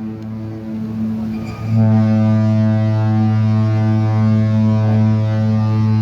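Cruise ship Carnival Horizon's horn sounding a deep, steady blast. One blast cuts off at the start, and after a short gap a second long blast begins just under two seconds in and holds.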